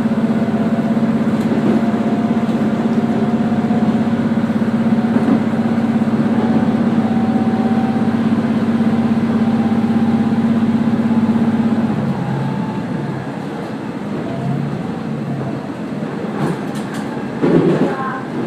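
Diesel railcar running along the line, heard on board: a steady engine drone over the rumble of the wheels on the rails. About two-thirds of the way through the engine note drops away, leaving quieter wheel and rail noise, with a short louder sound near the end.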